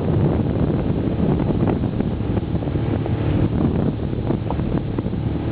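Wind buffeting the microphone aboard a moving boat: a steady, loud low rumble with gusty flutter.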